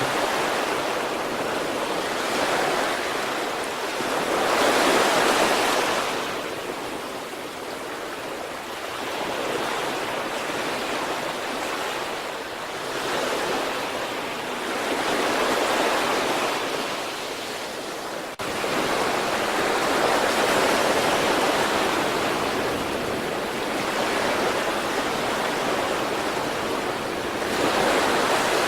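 Sea waves washing onto a shore: a continuous hiss of surf that swells and ebbs every few seconds as each wave breaks and draws back.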